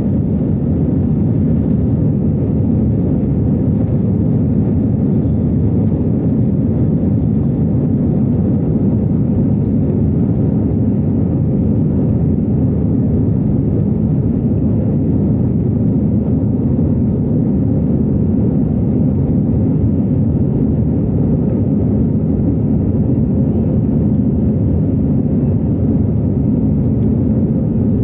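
Airbus A320 jet engines at takeoff power: a loud, steady low rumble that holds unchanged throughout.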